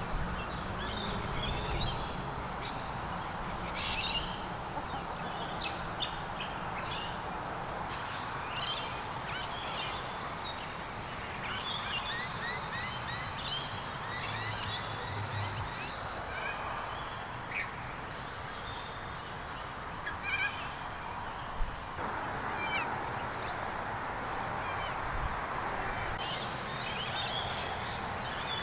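Birds chirping and calling: many short, high chirps and calls through the whole stretch, with a few quick runs of repeated notes, over a steady background hiss.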